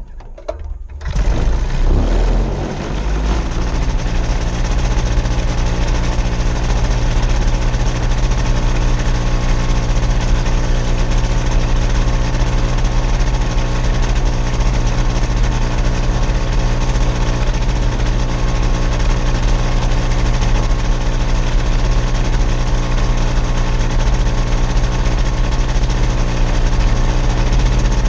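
Gyrocopter engine catching suddenly about a second in, then running steadily with a strong, even drone.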